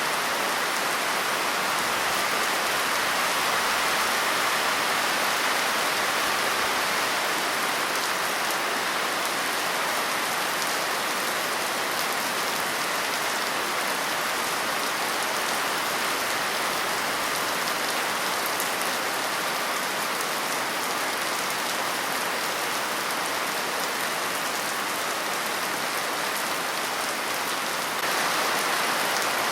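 Steady heavy rain: a dense, even patter of raindrops falling on a surface, getting a little louder near the end.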